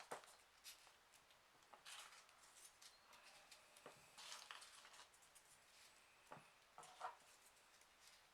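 Faint rustling and light clicks of folded printer-paper 3D origami pieces being handled and slotted into place on a model, a dozen or so soft, irregular handling sounds.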